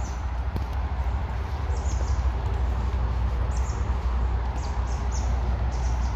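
Several short, high-pitched bird chirps, most of them in the second half, over a steady low rumble and hiss of outdoor ambience.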